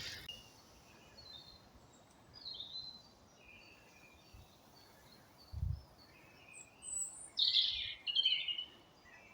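Birds singing and chirping: scattered short high calls, with a louder burst of song near the end. A brief low thump about five and a half seconds in.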